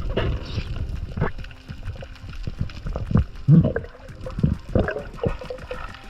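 Water sloshing and gurgling, with many scattered clicks and irregular low knocks.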